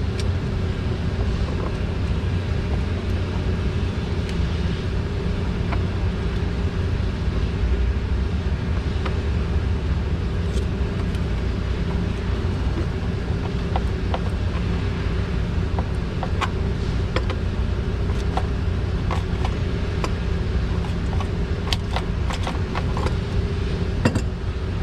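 A steady low rumble runs underneath scattered light clicks and taps of hands working plastic breather tubes loose on a forklift engine's valve cover, with a cluster of clicks near the end.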